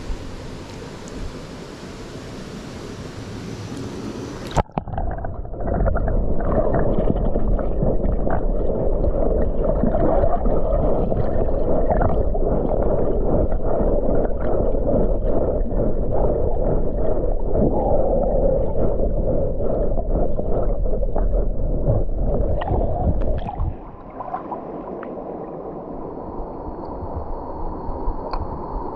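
Mountain stream water rushing, then about four and a half seconds in the sound suddenly goes muffled, with the high end gone, into loud churning and gurgling water with many small clicks, as heard with the microphone underwater. It drops quieter about a second before twenty-four seconds in.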